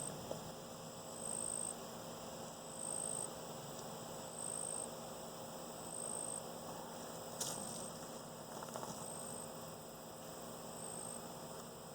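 Honeybees humming steadily around an open hive, with a short high tone repeating about every one and a half seconds and a faint click about seven seconds in.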